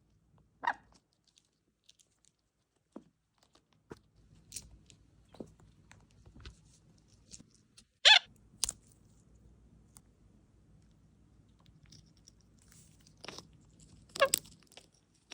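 Scattered cracks and crunches of a pine cone's woody scales being picked and broken apart, with the loudest snaps about eight seconds in and again near the end.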